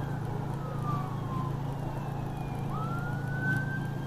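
Emergency vehicle siren wailing: a slow falling tone, then a quick rise about three seconds in to a held high note, over a steady low hum of road and engine noise.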